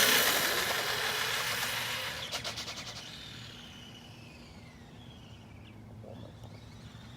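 Arrma Granite RC monster truck driving away, its motor and tyre noise fading over the first few seconds, then a faint whine that rises and falls in pitch.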